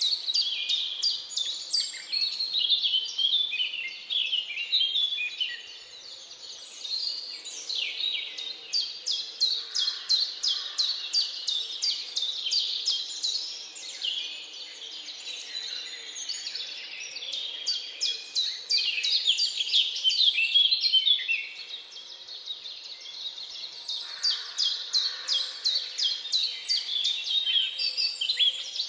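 A dense chorus of many birds singing and chirping, with rapid high-pitched notes overlapping throughout and a faint steady hiss beneath.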